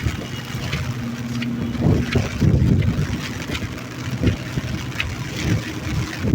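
Rain falling while wind buffets the microphone in irregular low rumbling gusts, over a faint steady low hum.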